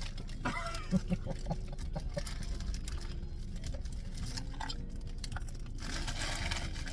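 Eating sounds: small clicks, crackles and rustles of food and packaging being handled and chewed, over a steady low rumble.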